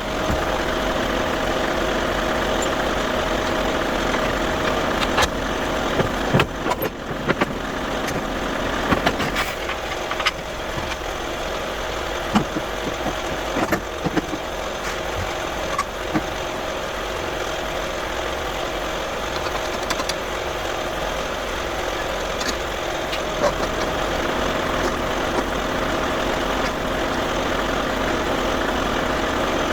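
Container truck's engine idling steadily, with a few sharp metal clacks between about five and sixteen seconds in as the container twistlock handles are pulled over.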